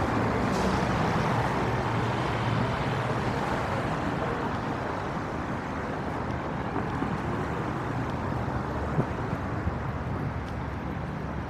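City street traffic noise: a steady rumble of vehicles, with a low engine hum that fades over the first few seconds as the sound slowly eases off. A small click about nine seconds in.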